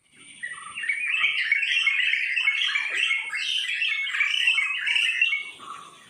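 Many small birds chirping and chattering at once in a dense chorus, building up in the first second and fading away near the end.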